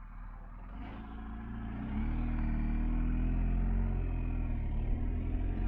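BMW R1250GS Adventure's boxer-twin engine under acceleration: its note rises in pitch and grows louder over the first two seconds, then runs fairly steadily, with low road and wind rumble.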